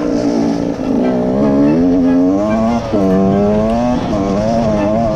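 Beta 125RR two-stroke dirt bike engine under way, its pitch climbing and falling with the throttle. An upshift drops the pitch suddenly about three seconds in.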